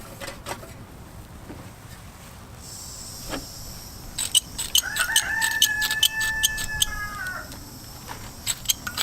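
A rooster crowing once, a single long held call of about two and a half seconds that drops slightly at the end. A run of sharp clicks repeats from about four seconds in.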